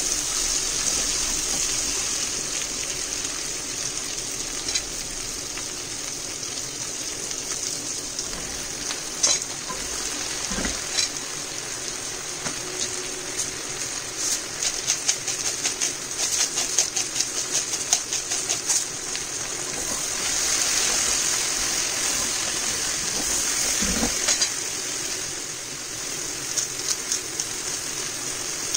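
Sliced onions, carrots and celery sizzling in a casserole pot as they are stirred with a wooden spoon, a steady frying hiss. About halfway through, a spice grinder clicks rapidly for a few seconds as salt and pepper are ground over the added mushrooms.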